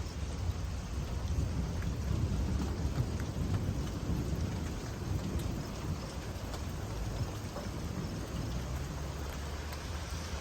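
Rain falling, with scattered drop taps, under a long low rumble of thunder that swells over the first few seconds and slowly dies away.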